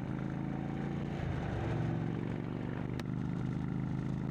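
Indian Chieftain's Thunderstroke V-twin engine running through a Freedom Performance exhaust as the bike gets under way. The engine note dips and climbs again about a second and a half in, and there is a single sharp click about three seconds in.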